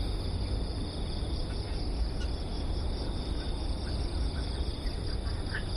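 Steady chorus of insects, a continuous high shrill at two pitches, over a low steady rumble, with a few faint short chirps.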